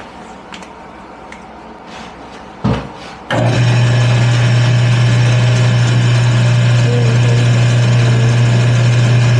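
Wood lathe switched on about three seconds in, its motor running with a loud, steady low hum as the top spins. A single knock comes just before it starts.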